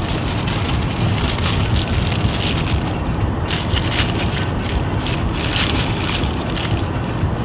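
Crinkling of a paper food wrapper in irregular crackles over the steady low rumble of road noise inside a moving car.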